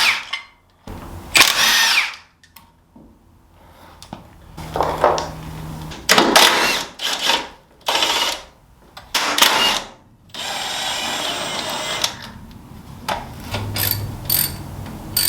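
Power tool, most likely an impact wrench, run in several short bursts and one longer steady run about two-thirds of the way through, working the wheel lug nuts loose.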